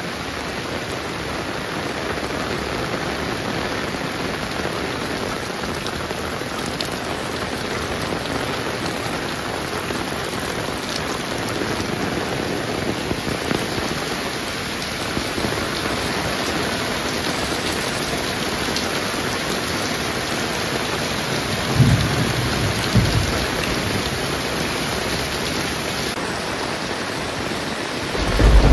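Heavy rain falling steadily, with two short low rumbles about three quarters of the way through and another beginning at the very end.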